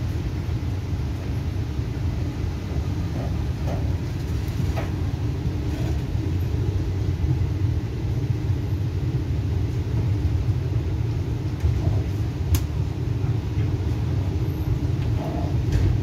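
Express passenger train coach running along the rails, a steady low rumble heard from inside at an open window. A few faint clicks come through, with one sharp tick about twelve and a half seconds in.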